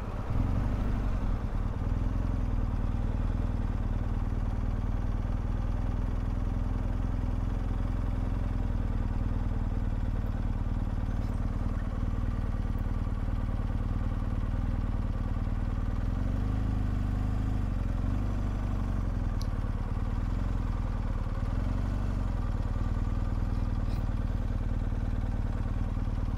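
Motorcycle engine running steadily at low speed, a constant low drone heard from the bike itself.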